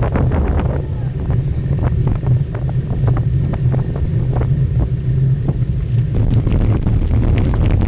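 Wind buffeting the microphone of a camera on a moving cyclocross bike, a steady low rumble with scattered rattles and clicks from the bike over rough ground.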